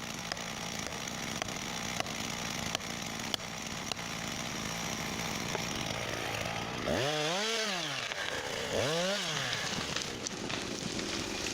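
Two-stroke chainsaw running steadily, its engine pitch swelling up and dropping back twice, about seven and nine seconds in.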